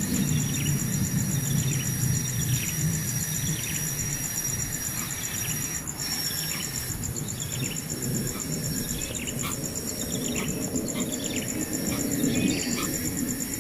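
Steady high insect trill with many short, falling bird chirps repeating over it, on a low rumbling background.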